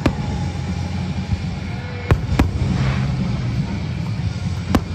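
Aerial firework shells bursting: sharp bangs at the start, twice about two seconds in, and twice near the end, over a steady low rumble.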